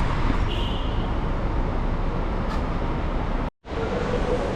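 Steady road-traffic noise, rushing and strongest in the low end, broken off by a brief dropout about three and a half seconds in.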